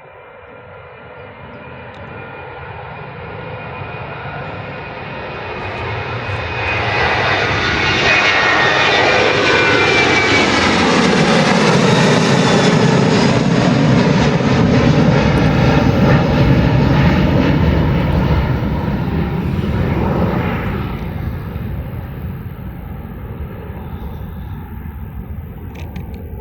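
Ryanair Boeing 737-800's twin CFM56 jet engines at takeoff power as it rolls down the runway and passes. The sound builds over the first several seconds, is loudest in the middle with its pitch sweeping down as it goes by, then eases off.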